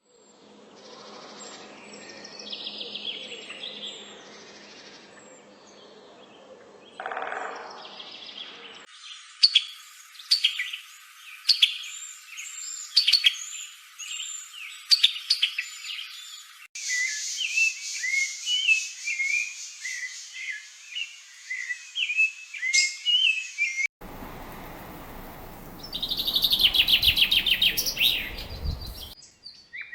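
Songbirds singing and chirping in several different recordings joined with abrupt cuts, each with its own background hiss. Near the end a loud, fast trill.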